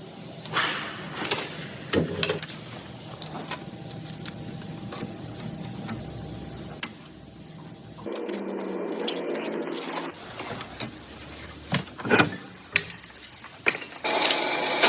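Engine assembly work: parts and hand tools clicking and knocking at irregular intervals over a steady hiss, with one louder knock about halfway through.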